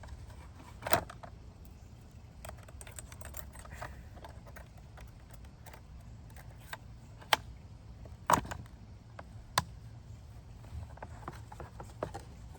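Small hard objects being handled: scattered light clicks and rattles, with four louder sharp knocks spread through.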